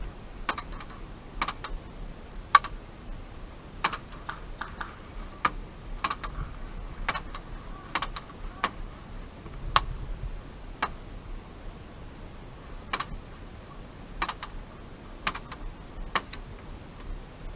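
Airsoft gunfire: sharp, single clicking shots at an uneven pace of about one to two a second, with a short lull after the middle.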